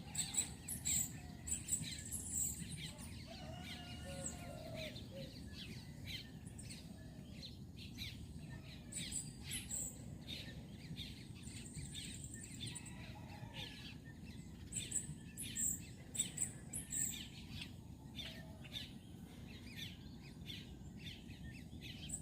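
Birds chirping and calling: many short, high chirps, with a few lower curving calls, over faint outdoor background noise.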